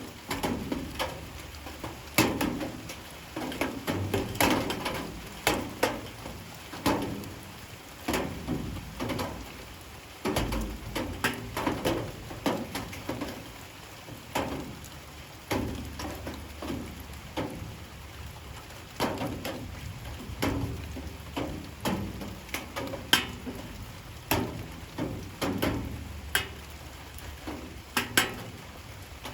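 Light rain falling, with a soft steady patter and irregular sharp taps of drops landing on hard surfaces, a few a second.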